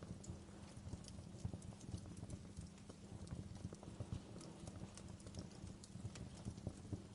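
Wood fire crackling in a fireplace, with frequent small irregular pops and snaps over a steady low rumble.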